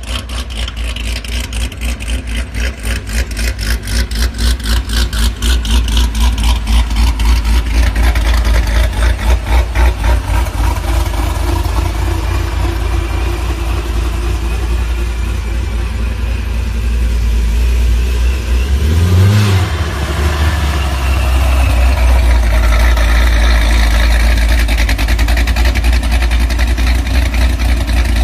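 C7 Corvette Z06's supercharged 6.2-litre V8 running with a pulsing low rumble, revved once briefly about two-thirds of the way through, then settling back to a steady idle.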